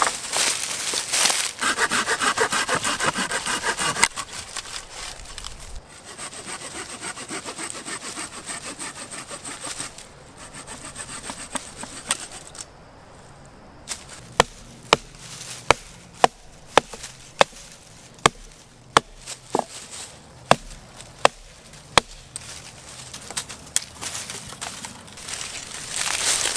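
A hand saw cutting through wood with quick back-and-forth strokes, loudest in the first few seconds and then quieter. Past the middle comes a run of sharp wooden knocks, about one every half second to second.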